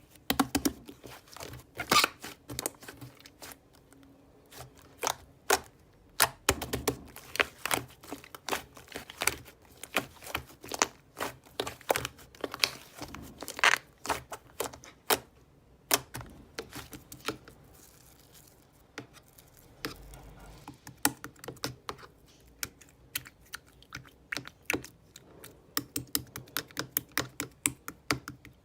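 Slime being pressed, stretched and folded by hand, giving a string of irregular sharp clicks and pops.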